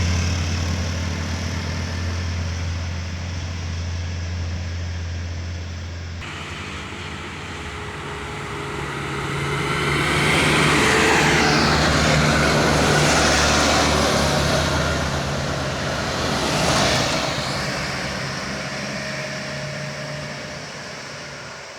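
Diesel sugarcane trucks towing trailers working up a steep climb, engines running under load. About six seconds in, the steady low engine hum changes abruptly. Engine noise then swells as a truck passes close, loudest around the middle, with another short rise a little later, then fades.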